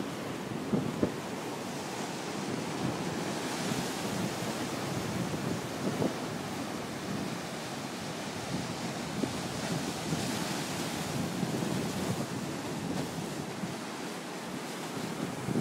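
Waves washing onto the beach with strong wind buffeting the microphone in short gusts. The hiss of the surf swells twice, about four seconds in and again about ten seconds in.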